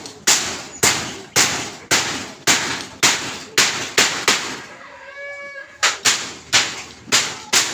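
Repeated hammer blows, about two a second, sharp and evenly paced. They pause briefly about five seconds in, where a short animal cry is heard.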